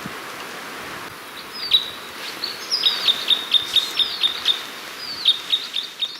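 A small songbird singing: a run of quick repeated high notes, about four a second, then a shorter second run near the end, over a steady background rush.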